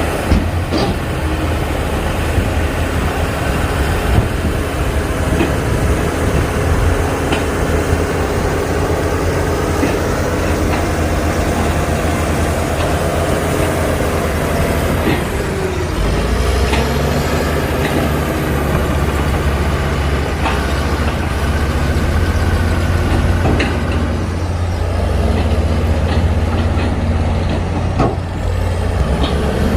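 Heavy diesel construction machinery running steadily under load. The engine pitch dips and climbs again about halfway through and twice more later, and there are a few short sharp clanks.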